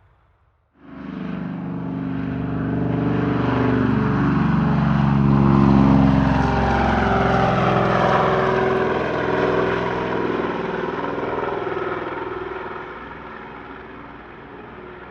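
Aircraft flying past at an airshow display, its engine tones sliding in pitch as it passes. The sound cuts in abruptly under a second in, is loudest around the middle and fades towards the end.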